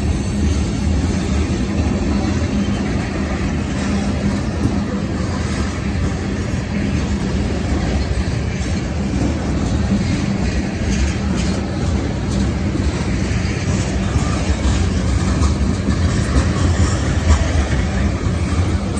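Freight train of tank cars rolling past close by: a steady rumble of steel wheels on the rails, with scattered clicks.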